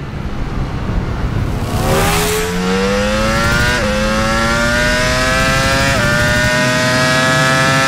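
Ducati Panigale V4's V4 engine at full throttle on track, its pitch climbing steadily from about two seconds in, with two brief breaks as it shifts up a gear, about four and six seconds in.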